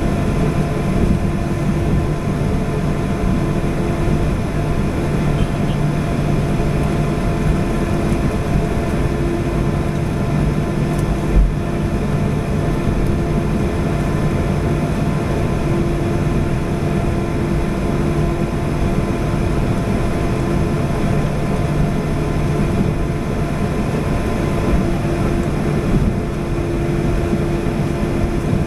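Airliner engines running, heard inside the passenger cabin as a steady loud rushing hum with a few constant tones, and one short low thump about 11 seconds in.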